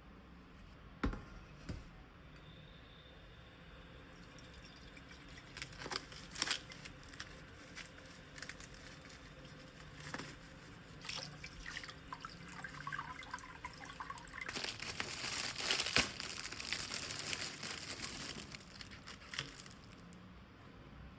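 Kitchen prep sounds: scattered light knocks and crinkling from handling food and packaging, then a tap running for about four seconds in the second half.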